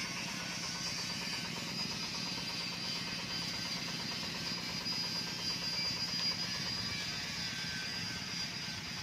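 Machinery running steadily: a low hum with a thin, steady high whine above it.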